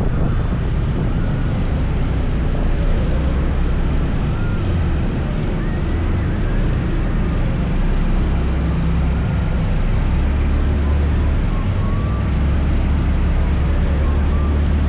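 Motor scooter riding along, its engine running steadily under a constant low rumble of wind and road noise on the microphone.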